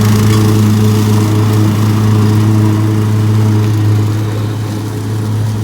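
Lawn mower running steadily at a constant speed.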